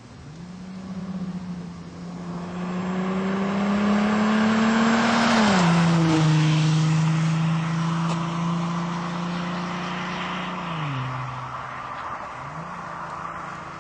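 A VW Passat 2.5 V6 TDI diesel with a straight-through exhaust and its catalytic converter cut out, accelerating. The drone rises in pitch for about five seconds, drops suddenly at a gear change and holds steady, drops again near the end, then starts to rise once more.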